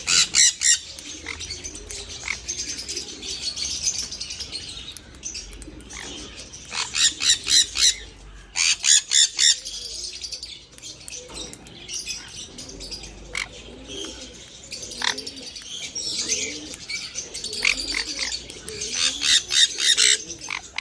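Small birds chirping in rapid runs of high, repeated calls that come in several loud bursts, with softer chirps in between.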